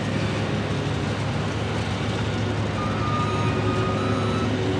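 Diesel engine of a super stock pulling tractor running steadily, with a faint high whine joining about three seconds in.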